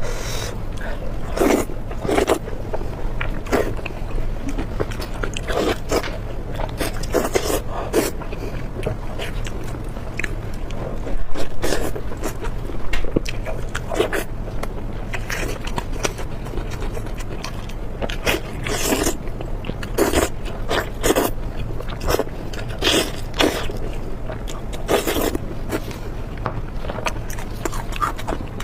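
A person eating, with close-up chewing and biting sounds in irregular short bursts, over a steady low hum.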